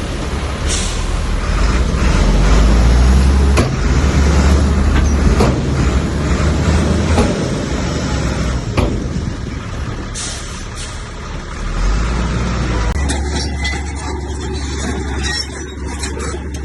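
Heavy diesel earthmoving machinery working under load, a deep steady engine rumble with scraping noise and several sharp knocks. The sound changes abruptly near the end.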